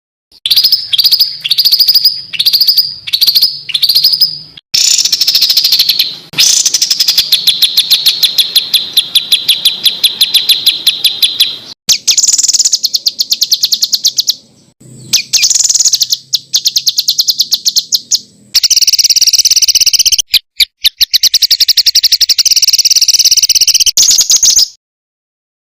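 Edited masteran compilation of songbird recordings, with abruptly cut segments. It opens with about seven repeated short notes that each drop slightly in pitch, then moves into fast, rapid-fire trills. It ends in a denser, harsh rattling trill: the close-packed, rough 'tembakan' bursts used to tutor competition birds.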